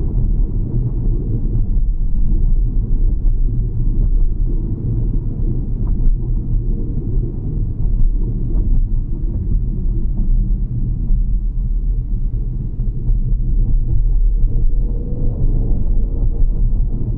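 Steady low rumble of vehicle and road noise, with no clear changes.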